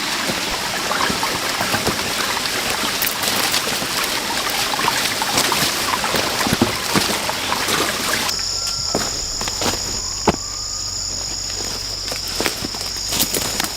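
Steady running water from a stream for about the first eight seconds. The sound then cuts abruptly to a steady, high insect drone, with scattered light clicks and knocks.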